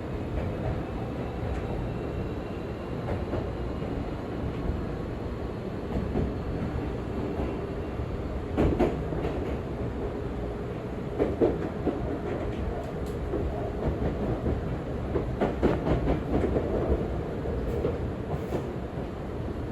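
Seibu 40000 series electric commuter train running, with a steady rumble, a faint motor whine rising in pitch as it picks up speed after departure, and groups of wheel clacks over rail joints in the second half.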